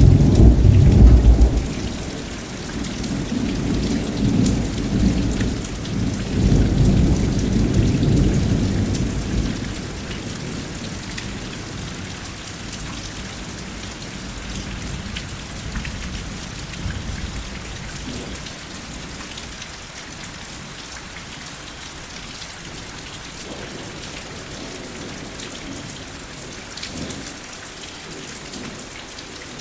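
Steady rain falling with thunder: a loud deep rumble right at the start, then a rolling rumble that dies away about ten seconds in, leaving the even hiss of rain.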